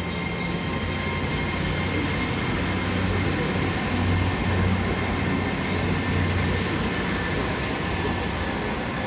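Train running with a steady low rumble and a thin, high whine that climbs slightly over the first few seconds and then holds.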